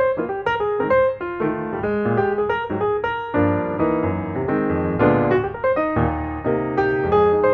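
Background music: solo piano playing a flowing melody of struck notes.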